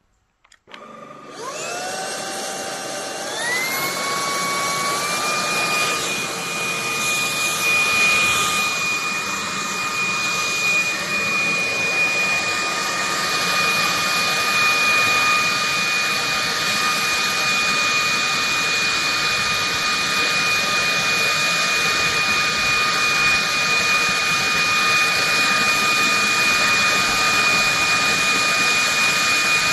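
Cordless stick vacuum's motor switching on and spinning up, its whine rising in several steps through the power settings, then running steadily at high power with a high-pitched whine and airflow hiss.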